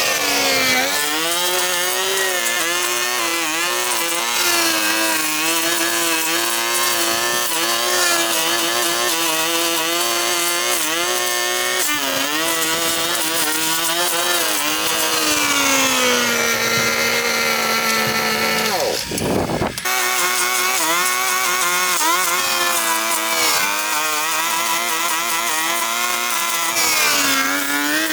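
Small petrol engine of a handheld power tool cutting vegetation, running at high revs, its pitch wavering as it takes load. The pitch drops lower about sixteen seconds in, and there is a brief break near twenty seconds before it runs on.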